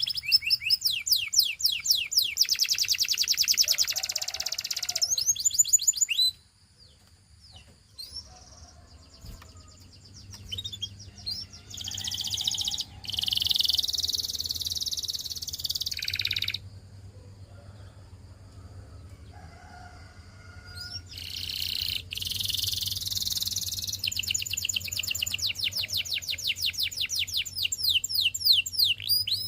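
Canary singing in long runs of rapid repeated high notes and trills. The song pauses for several seconds early on, then returns in bursts and ends in a fast, steady trill.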